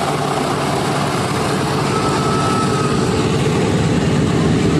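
Piston engines of a propeller aircraft running with a steady, loud drone.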